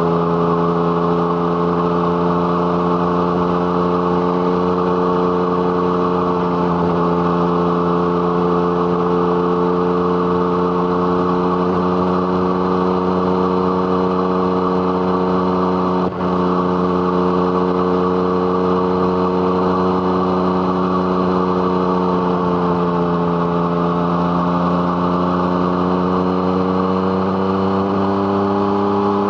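Yamaha MT-09's 847 cc inline-three engine through an Arrow Thunder exhaust, heard from the rider's seat under way at a fairly steady pace. The note holds nearly level, dips slightly a couple of times and climbs near the end, with one brief break in the sound about sixteen seconds in.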